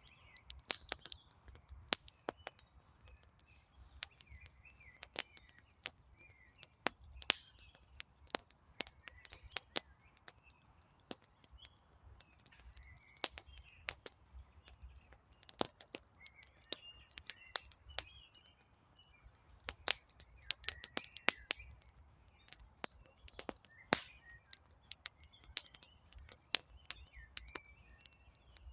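Wood campfire crackling, with irregular sharp pops and snaps throughout, and birds chirping faintly in the background.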